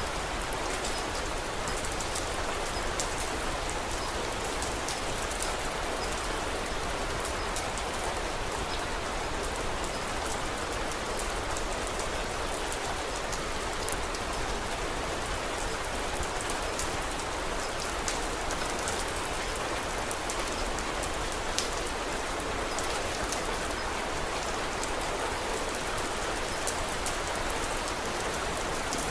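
Steady rain falling, a constant even hiss of drops, with many small sharp clicks scattered through it like the crackle of a wood fire.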